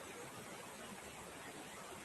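Faint, steady rushing of a waterfall.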